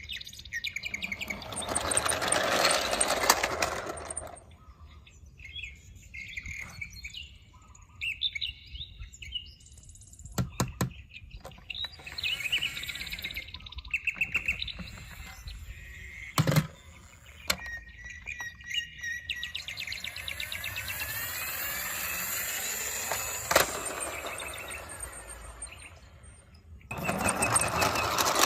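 Birds chirping, mixed with scattered clicks and knocks and two louder stretches of rushing noise, one just after the start and one near the end.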